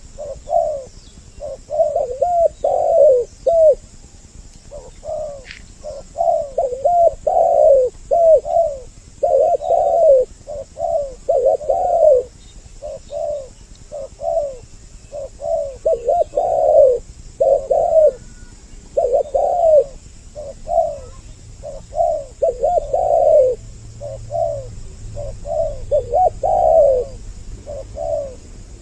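Spotted doves cooing over and over, two birds' voices overlapping in a steady run of short, low coo phrases, as used in a trapping lure recording.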